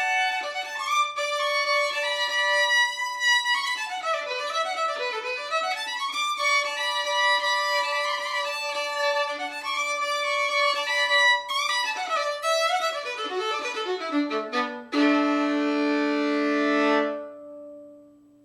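A solo fiddle with steel strings, a Hopf-stamped trade violin re-graduated and given a double bass bar by A.W. Van Dorston, plays a bowed tune with quick up-and-down runs. It ends on a loud held chord that breaks off and is left ringing briefly.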